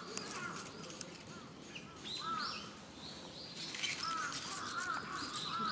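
Birds calling, a run of short, repeated arched chirps, with a few faint sharp clicks in among them.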